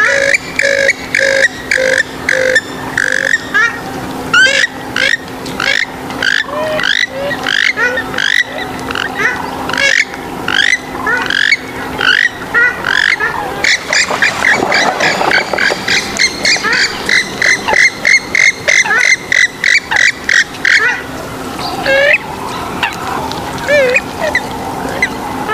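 Swamphen and moorhen calls: loud, fast runs of short rising notes, several a second, with a faint steady hum under the first half.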